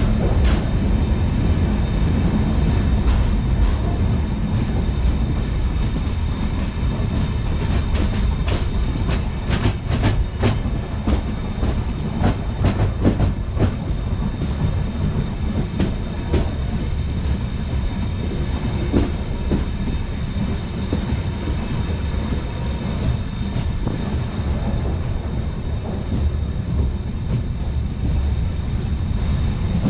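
Passenger train running along the track: a steady low rumble of wheels on rail, with a run of sharp clicks from the rail joints that is busiest in the middle stretch.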